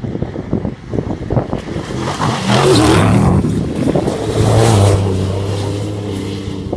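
Off-road race vehicle passing at high speed, its engine building to a loud peak and then holding a steady note as it draws away, with wind buffeting the microphone.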